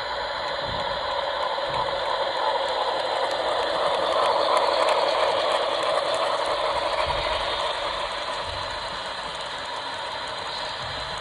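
An HO-scale model locomotive's small electric motor and gears running as the train passes, growing louder to a peak about four to five seconds in, then fading.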